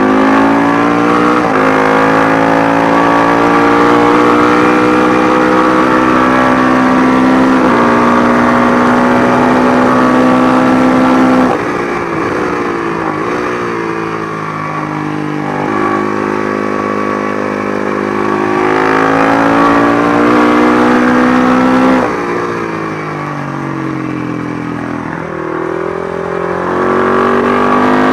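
Matchless G50 single-cylinder racing motorcycle engine at full throttle, its pitch climbing through the gears with upshifts, then dropping away as the throttle closes and it changes down, about a third of the way in and again near two thirds, before pulling hard again.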